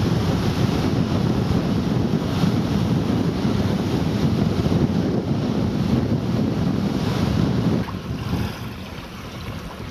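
Strong wind buffeting the microphone, a rough low rumble that eases suddenly about eight seconds in.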